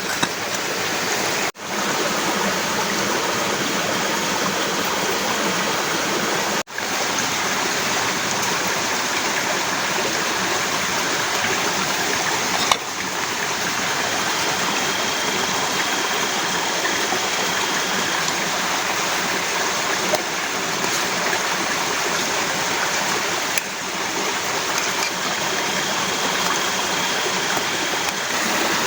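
Heavy rain falling in a steady, dense hiss. It cuts out abruptly for a moment twice in the first seven seconds.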